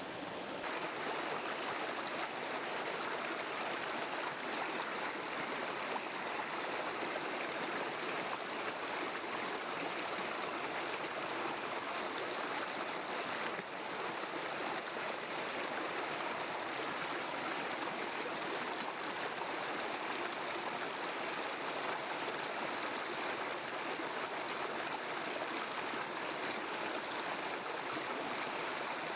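Flowing river water rushing steadily, an even watery hiss with no other sounds.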